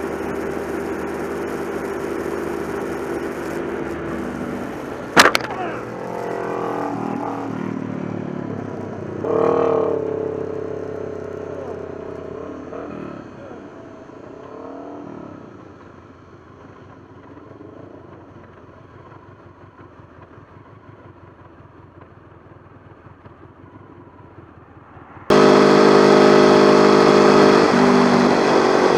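Motorcycle engine running at speed, hit by a single sharp, loud crack about five seconds in: a bird striking the bike or rider. The engine then slows and drops away. Near the end it cuts abruptly back to a loud, steady engine.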